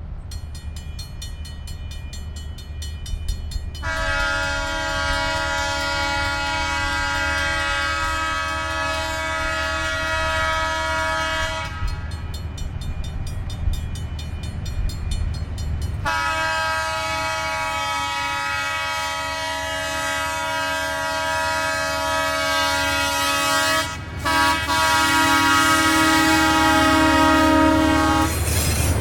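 Diesel locomotive air horn sounding a chord in long blasts for the grade crossing: one of about eight seconds, then after a pause a longer one, broken briefly about three-quarters of the way through. The crossing's warning bell rings steadily before the first blast and between the two, and a low rumble from the approaching train rises near the end.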